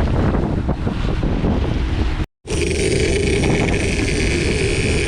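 A boat's motor running steadily under wind buffeting the microphone. The sound cuts out completely for a moment about two seconds in, then the motor comes back with a steady whine over its rumble.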